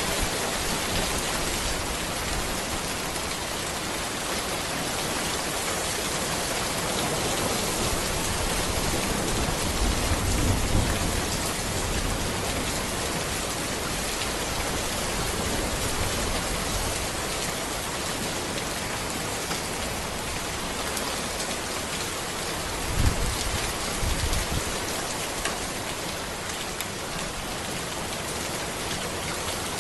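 Steady rain falling on a road, an even hiss of drops, with two short low rumbles, one about a third of the way in and another past the three-quarter mark.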